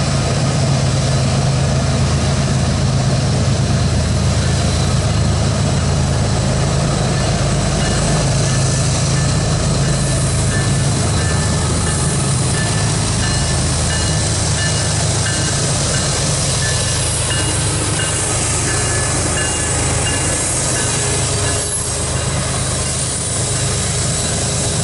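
Union Pacific diesel locomotives pulling an intermodal train slowly past, their engines giving a steady low rumble. From about eight seconds in, faint high-pitched tones come and go in short repeats.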